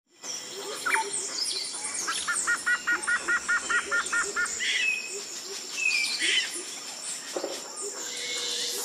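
Several birds calling and chirping over steady high-pitched insect drone in a forest. One bird gives a fast run of about a dozen evenly repeated notes, about five a second.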